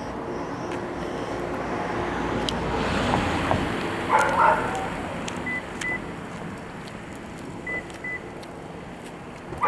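A 2020 Toyota Corolla LE's 1.8-litre four-cylinder idling steadily just after a cold start, with a straight-piped exhaust (catalytic converter and resonator removed). A dog barks briefly about four seconds in.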